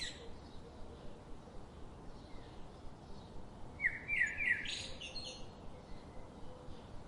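Songbird singing: one quick phrase of short down-slurred notes stepping upward in pitch about four seconds in, with the end of an earlier phrase right at the start, over a steady background hiss.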